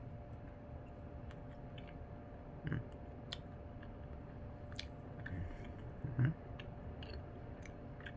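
A person chewing a soft, freshly microwaved caramel cinnamon roll: faint wet mouth clicks and smacks, with two louder soft thumps, the louder one about six seconds in.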